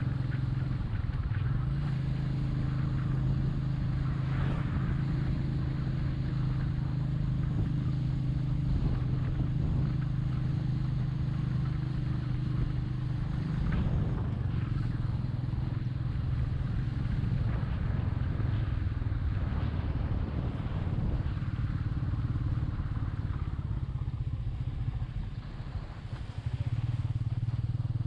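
Royal Enfield Meteor 350's single-cylinder engine running steadily under way, with rush of air over it. The level dips briefly about 25 seconds in and then picks up again.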